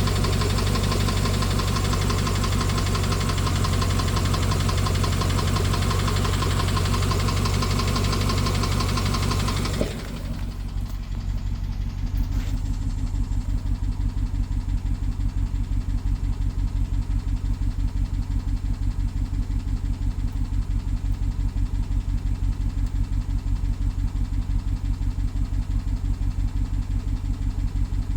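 BMW N63 twin-turbo V8 idling with a rapid, even ticking; the owner wonders whether it is the timing chain, and the engine is also misfiring. About ten seconds in the sound suddenly turns duller, and it then settles into a regular pulsing beat.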